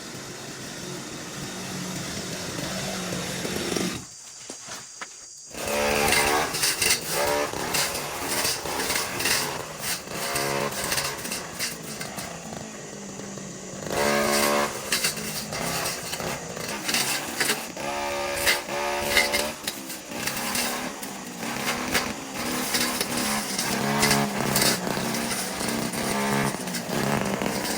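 Small two-stroke engine of a garden power tool rising in level, dropping away abruptly about four seconds in, then revving in repeated throttle bursts.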